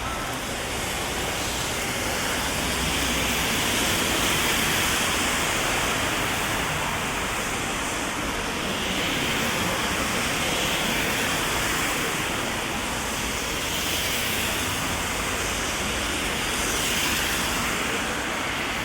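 Heavy rain falling steadily, heard from under an umbrella, as a continuous even hiss.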